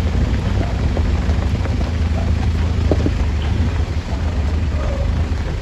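Heavy diesel engine running steadily with a deep, even hum, with a few faint knocks and clicks over it.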